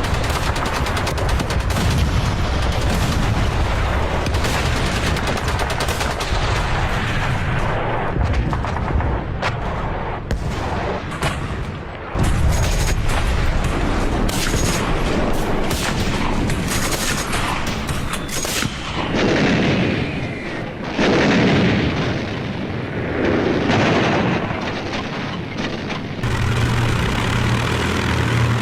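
Battlefield gunfire: dense shooting with many sharp shots and machine-gun bursts, mixed with booms. Later come several sweeping rising-and-falling sounds. Near the end a steady low engine drone sets in.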